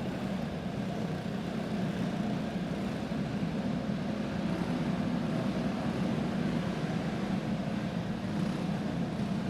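Racing karts' single-cylinder four-stroke clone engines running as a pack, a steady drone without clear revving rises or falls.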